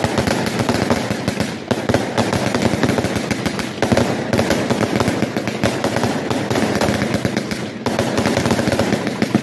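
Consumer fireworks going off in a dense barrage: rapid shots and crackling aerial bursts almost without a break, dipping briefly about eight seconds in before the volley resumes.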